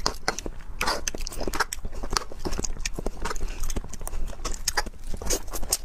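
Close-miked eating sounds: wet chewing and biting with many sharp mouth clicks, several a second.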